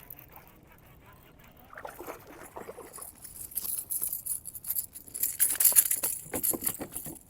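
Water splashing in bursts as a hooked bass thrashes at the surface while it is reeled in. The splashing is loudest in the second half.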